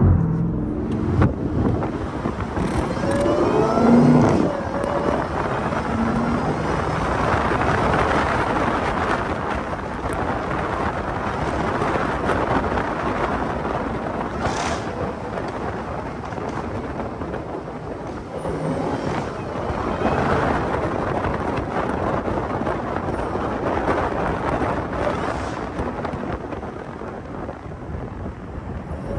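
Jeep Grand Cherokee Trackhawk's supercharged 6.2-litre V8 under way, its supercharger whining and rising in pitch as it accelerates a few seconds in and again about two-thirds through. It is heard from outside the window of the moving car over a steady rush of wind and road noise.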